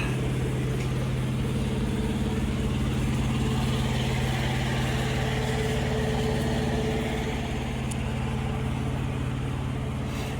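Truck diesel engine idling steadily: a low, even hum that eases slightly about two-thirds of the way through.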